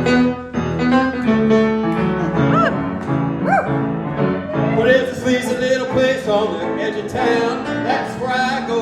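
Instrumental intro of a rock-and-roll song played by a band, with piano among the instruments and a few sliding, bent notes.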